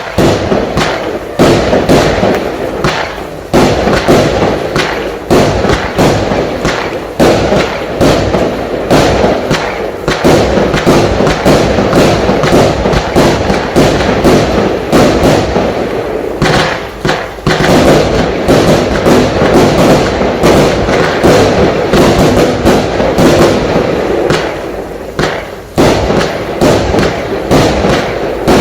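Cube Fireworks Haymaker 78-shot barrage cake firing continuously: a rapid run of launch thumps and bursts, several a second and often overlapping, with a brief lull near the end.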